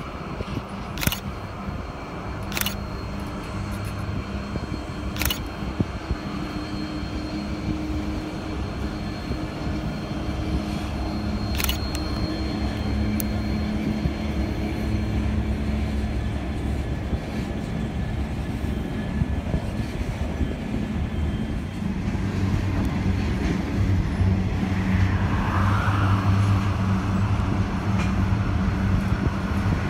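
Coal train approaching with its locomotives in the lead: a steady low drone and rumble that grows gradually louder as it draws near. A few sharp clicks are heard in the first half.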